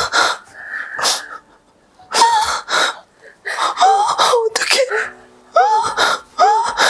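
A woman sobbing hard: sharp gasping breaths, then several short wailing cries that bend up and down in pitch.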